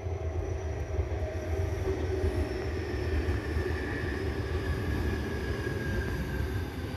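Electric commuter train running past on an embankment: a steady rumble of wheels on rail, with a faint high whine that slowly sinks in pitch.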